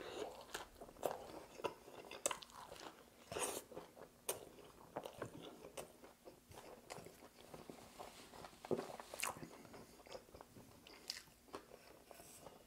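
Close-up chewing of a buffalo chicken sandwich on toasted bread, with irregular crisp crunches from the toast and the fried chicken's crispy skin.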